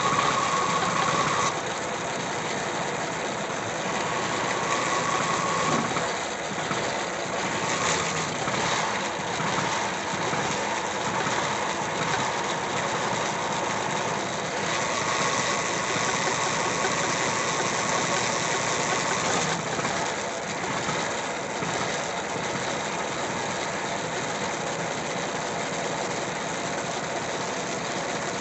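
A 1963 Nuffield 342 tractor's BMC diesel engine running steadily. A whine comes and goes a few times, with the sound a little louder while it lasts.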